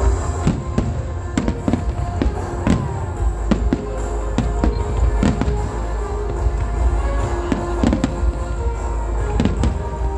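Fireworks display: a rapid series of sharp bangs from shells launching and bursting, a few each second, with music playing along.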